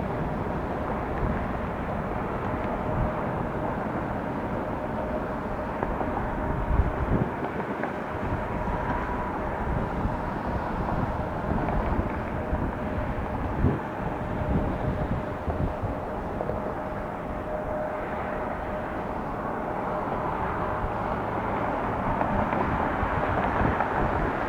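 Jet engine noise of a Boeing 757-300 on approach, a steady rush with a faint whine that grows louder toward the end, with occasional wind buffeting on the microphone.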